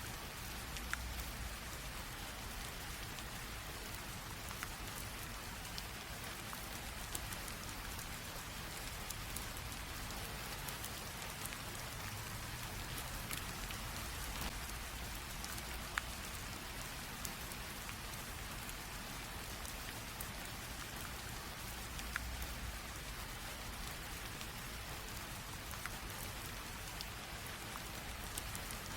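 Light rain falling steadily, an even patter with the sharper ticks of single drops scattered through it.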